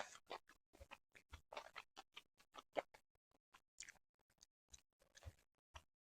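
Quiet, close-miked chewing of food from a sushi platter: an irregular run of short mouth clicks and crunches, several a second.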